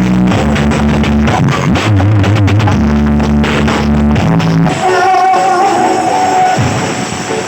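Loud music with heavy, sustained bass notes played over a large carnival sound system. About four and a half seconds in, the bass drops out and a higher, held melody line carries on alone.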